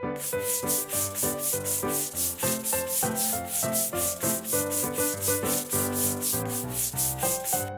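Cartoon background music with a rhythmic scraping sound over it, about four strokes a second, like sanding.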